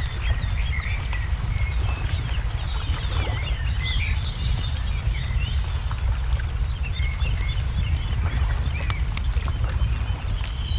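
Wood fire crackling with scattered sharp pops over a steady low rumble, while small songbirds chirp and twitter throughout.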